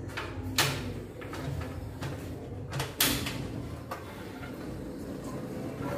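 Portable gas stove being lit: two sharp clicks of the knob's igniter, about half a second in and again about three seconds in, with a few fainter clicks between.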